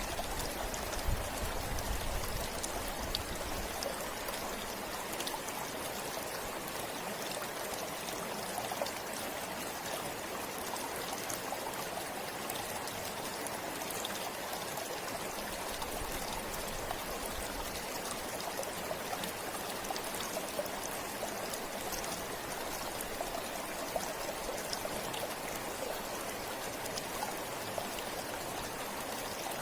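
A river or stream flowing steadily over rocks, with a continuous rush and small splashes.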